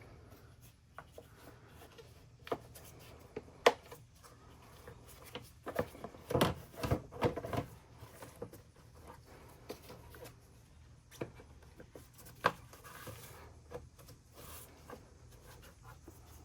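Scattered clicks, knocks and rubbing of car parts being handled and fitted by hand, with a sharp knock about four seconds in and a busy run of knocks a little past the middle.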